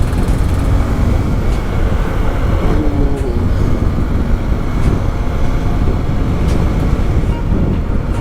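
Motorcycle engine running steadily under way on the road, with a loud, even rumble and no change in pace.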